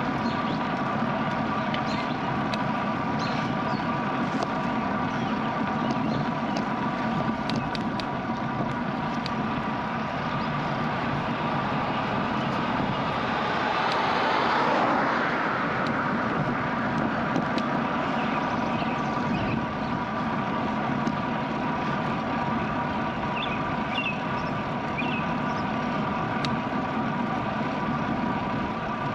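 Steady wind and road noise of a bicycle ride recorded on a GoPro action camera. A motor vehicle passes about halfway through, rising and then fading away.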